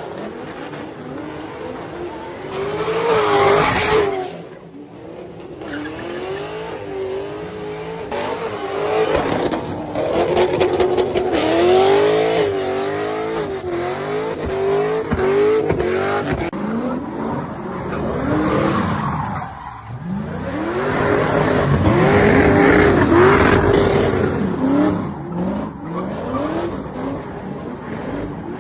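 A car engine revving up and down over and over as the car drifts, with tyres squealing. Louder surges come about three seconds in, around ten to twelve seconds in, and loudest of all around twenty-two seconds in.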